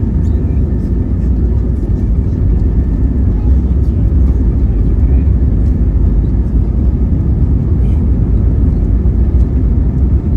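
Airbus A320neo jet engines at takeoff power: a loud, steady low rumble.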